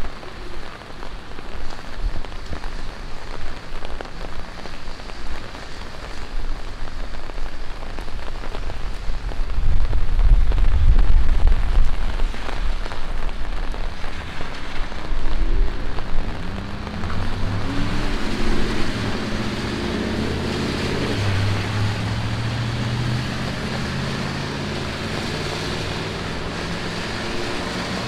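Rain falling on a city street. A low rumble builds about eight seconds in and is loudest a few seconds later. In the second half a vehicle engine runs, its pitch stepping up and down.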